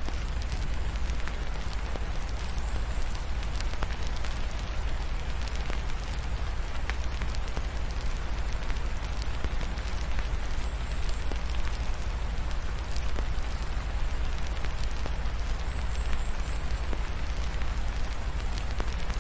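Fireplace fire crackling with scattered sharp pops, over the steady hiss of rain and a constant low rumble.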